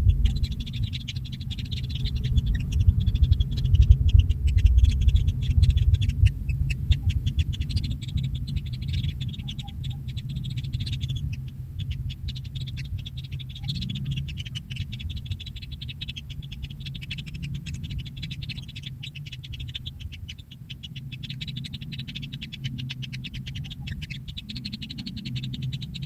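Kingfisher nestlings churring in their burrow nest: a continuous, rapid run of high ticks, over a steady low rumble.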